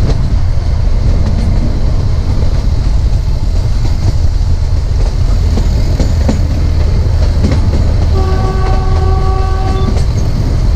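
Narrow gauge train running, with a steady low rumble and scattered clicks of the wheels over the rail joints. Near the end the ZDM4A diesel locomotive's horn sounds once for about two seconds, one steady note.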